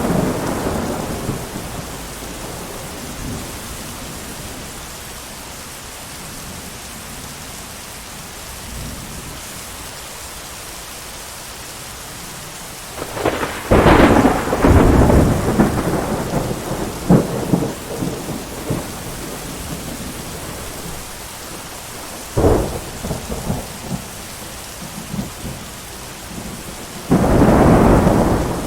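Steady heavy rain with thunder: a rumble dying away at the start, a loud clap about 13 seconds in that rolls on with several cracks for a few seconds, a sharp crack about 22 seconds in, and another loud rumble near the end.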